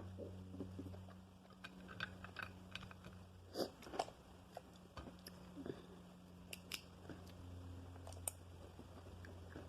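Crab shell cracking and crunching as it is bitten and chewed: scattered sharp cracks, the loudest two coming close together about three and a half seconds in and another near the end, over a low steady hum.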